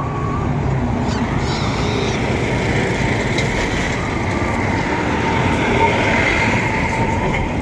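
Heavy trucks running on the road: a steady, loud mechanical noise of engines and tyres.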